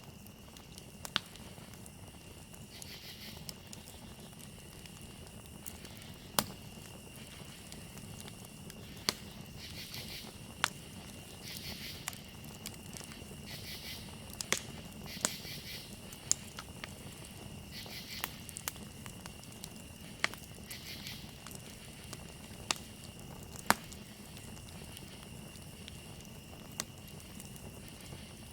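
Campfire crackling, with sharp irregular pops every second or two over a soft steady rush. Behind it, crickets trill in one steady high tone, and short bursts of pulsing insect calls come every few seconds.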